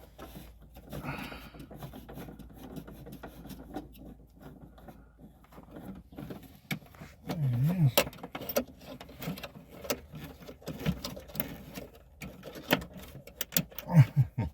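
Scattered clicks, scrapes and light knocks of a hand tool and fingers working a stubborn screw on the accelerator pedal's throttle position sensor, over a low steady hum. The sharpest knocks come late, about 14 seconds in.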